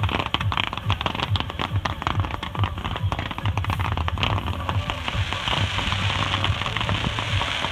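A fireworks barrage fired in rapid succession: a dense, continuous crackle of bursting stars over a regular run of low thuds.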